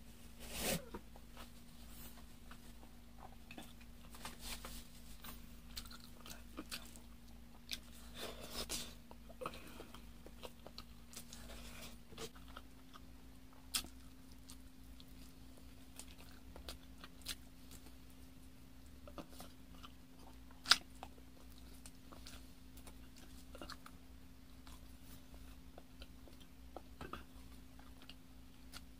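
Close-miked eating: a man biting and chewing braised chicken legs, with many short wet mouth clicks and smacks scattered through, and one sharp click about two-thirds of the way in.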